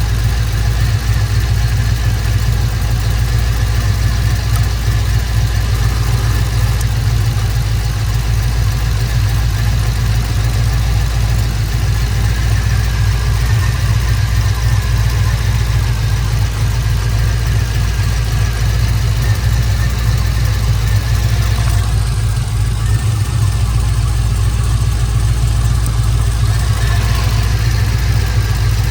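2000 Chevrolet Camaro engine idling steadily with a low, even drone. The owner suspects one cylinder is missing, on an engine suffering from blow-by.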